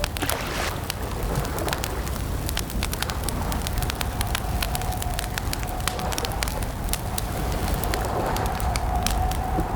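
Campfire crackling: irregular sharp pops and snaps over a steady low rumble, with a faint, slightly wavering steady tone held underneath.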